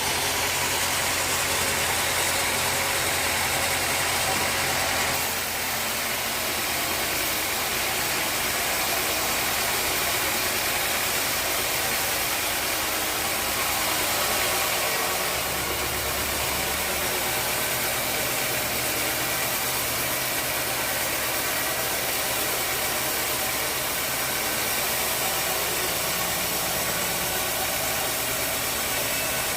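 Sawmill machinery running steadily: an engine hum under a constant noisy saw sound. About five seconds in the sound dips slightly, and a deeper hum comes up briefly between about fifteen and seventeen seconds.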